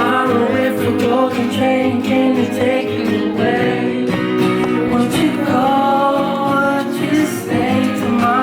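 Live acoustic guitar music with a male voice singing over it.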